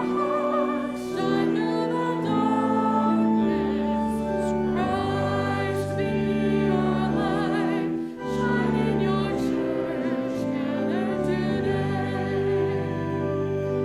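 Church music: a voice singing with vibrato over held chords that change every second or two.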